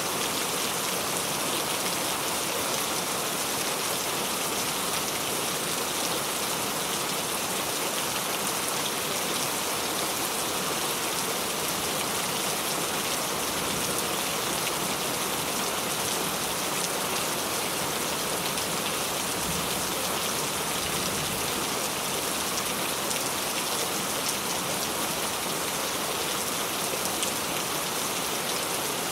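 Steady rain falling, an even hiss of many drops with no thunder or other events: a looped rain sound effect.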